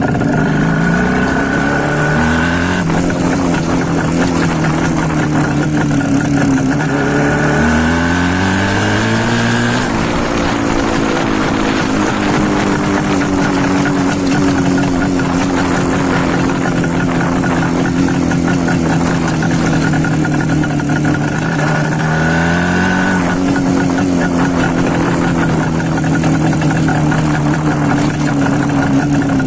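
IZH Planeta 5 single-cylinder two-stroke engine running loudly through an exhaust with its baffles removed. The revs climb and are held several times, with steady running in between.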